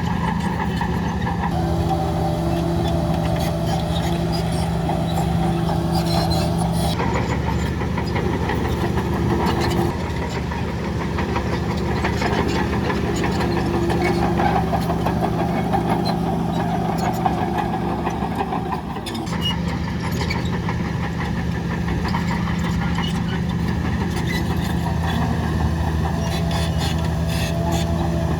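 Heavy diesel earthmoving machinery, a bulldozer and dump trucks, running steadily with many clicks and clanks. The engine note dips briefly about two-thirds of the way through.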